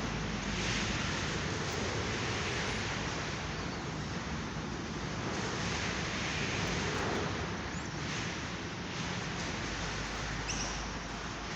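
Steady rushing noise, like wind on the microphone or air movement, with a brief faint high chirp from a cage bird about ten seconds in.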